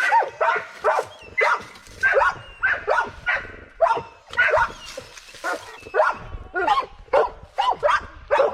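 Dogs barking over and over in short, pitched barks, about two or three a second.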